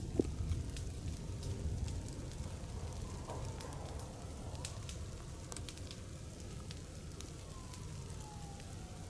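Forest fire burning, with scattered sharp crackles and pops over a steady low rumble and hiss. A faint falling whine comes in near the end.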